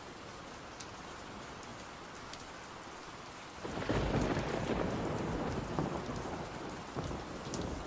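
Steady rain falling, with a roll of thunder that swells in suddenly about halfway through and keeps rumbling.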